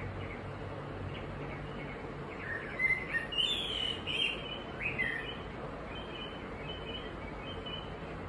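A bird chirping: a quick cluster of high chirps about three seconds in, then a few short, thin notes, over a steady background hiss.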